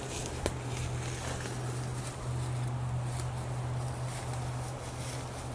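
Footsteps on creek-side rocks over a steady low hum, with one sharp click about half a second in.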